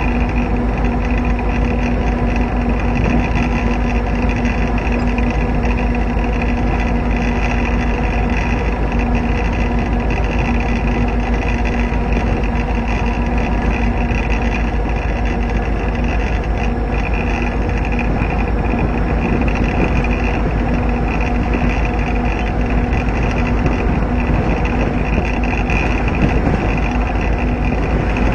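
Diesel locomotive running steadily as the train rolls along the track: a constant engine drone with a steady hum over continuous rushing noise, unchanging throughout.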